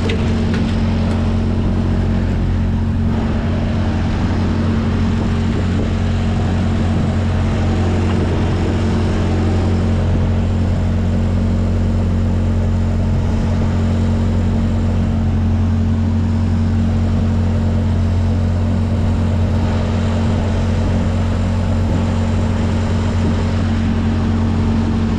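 Diesel engine of a Freightliner semi-truck running steadily at idle: an unchanging low drone with a steady hum.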